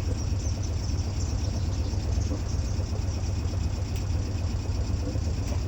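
Sailboat's engine running steadily at low speed while manoeuvring to dock, a continuous low rumble.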